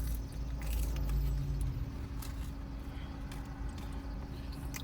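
A person chewing french fries, with a few short crackles and clicks of eating, over a steady low hum.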